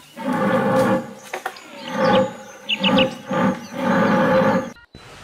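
A series of about five loud pitched animal calls, each under a second long, with a few short high chirps among them near the middle; the calls stop abruptly near the end.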